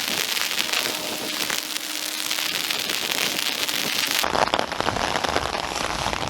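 Heavy rain pattering on nearby surfaces, a dense crackle of countless drops. About four seconds in the sound shifts, with less hiss at the top and more low rumble.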